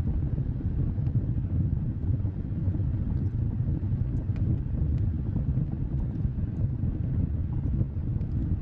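Wood fire burning with a steady low rumble, with a few faint crackling pops scattered through it.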